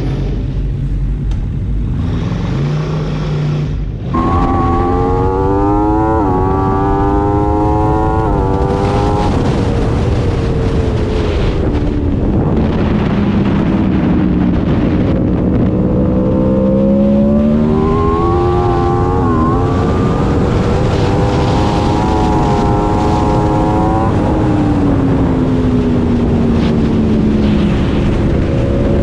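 Aprilia RSV4 V4 engine on track. Its note climbs with sharp drops at upshifts, falls away slowly as the bike slows, then climbs and falls again, under heavy wind rush. The first few seconds hold a quieter, different sound before the engine comes in loud about four seconds in.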